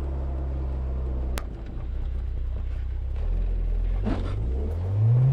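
Car engine running steadily at low revs, with one sharp click about a second and a half in. Near the end the engine note starts to climb as the car pulls away under throttle.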